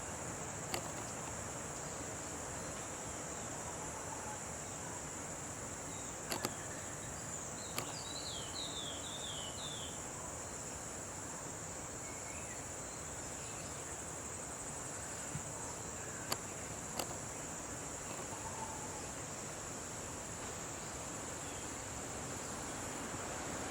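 Steady high-pitched drone of insects, over an even background hiss, with a few sharp clicks and a brief bird trill about eight seconds in.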